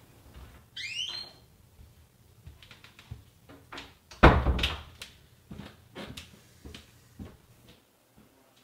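A door squeaking on its hinge, then handled with several knocks and one heavy thud about four seconds in, as it is shut.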